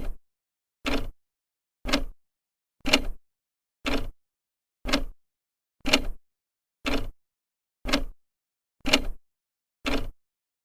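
Old clock's second hand ticking evenly, once a second, each tick a short sharp click.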